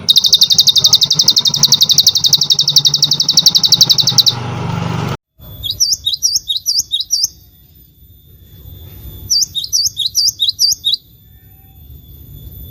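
Small songbirds calling. First comes a fast, buzzy trill of rapidly repeated notes for about four seconds. After a sudden break, a different bird gives two phrases of about five quick, swooping whistled notes each, with a steady high-pitched tone behind them.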